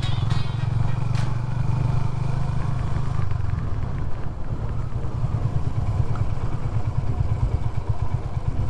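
Honda CB350 H'ness's single-cylinder engine running at low revs, a steady low pulsing beat that grows more distinct in the second half.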